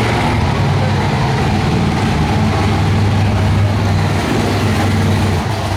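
Monster truck engine running with a steady low drone.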